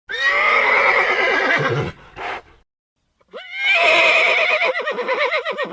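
A horse whinnying twice: a long call, a brief pause, then a second long call whose pitch rises at the start and then quavers.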